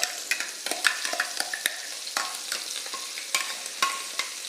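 Ground masala paste sizzling as it is scraped out of a steel bowl into hot oil in an iron kadhai. Frequent sharp clicks and scrapes of the metal spoon and bowl run through the frying hiss, some with a brief metallic ring.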